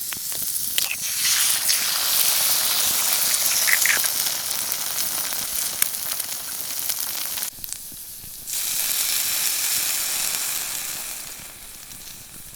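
Food sizzling as it fries, a steady high hiss with small scattered pops. It breaks off for about a second partway through, then returns and fades near the end.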